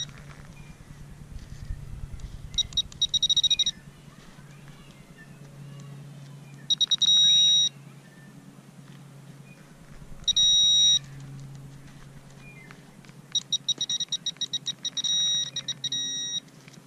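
Handheld pulse-induction pinpointer beeping over a buried coin. The high beep comes in runs of rapid pulses and solid tones about a second long, pulsing as the probe nears the coin and holding a steady tone when right on it.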